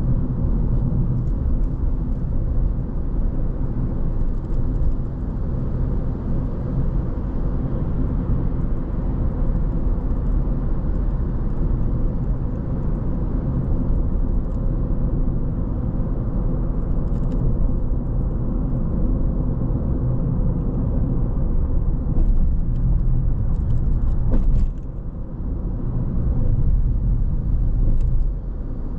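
Car driving at a steady pace: a steady low rumble of tyres on the road and engine hum, with a brief click and a short dip in loudness about three-quarters of the way through.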